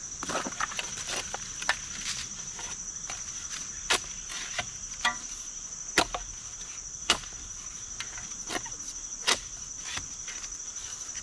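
Steady high-pitched insect chorus, with irregular sharp knocks or cracks every second or so, a handful of them much louder than the rest.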